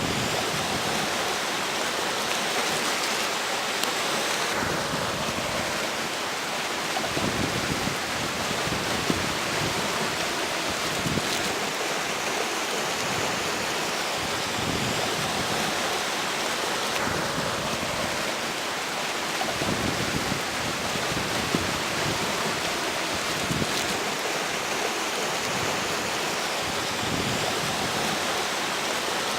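A flowing river rushing steadily, mixed with strong wind that gusts every few seconds and buffets the microphone.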